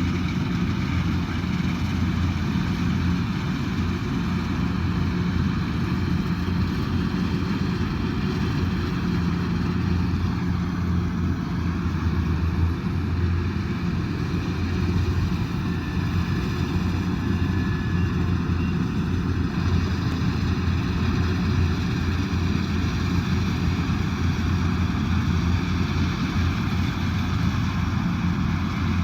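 Kubota DC108X combine harvester's diesel engine running steadily under working load, a continuous low drone with no change in pace.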